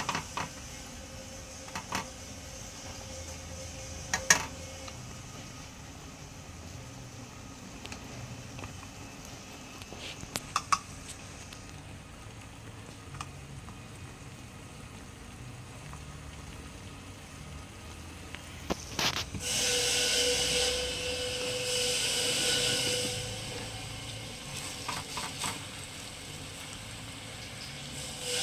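Fermented snakehead fish fillets frying in a wok of hot oil: a steady sizzle, with a few sharp taps of chopsticks against the pan. The sizzling grows louder for a few seconds about two-thirds of the way through.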